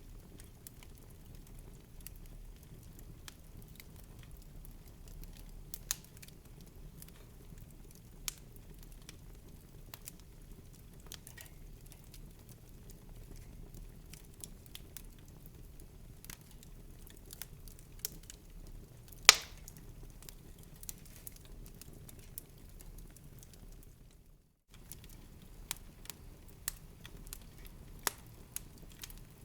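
Wood fire crackling in a fireplace: a steady low rumble of the flames under scattered irregular snaps and pops, with one much louder pop about two-thirds of the way through. The sound drops out completely for a moment a little later.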